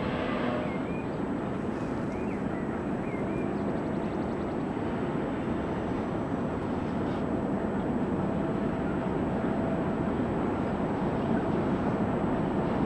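Steady distant rumble of trains moving through a large railway station yard, growing slightly louder toward the end.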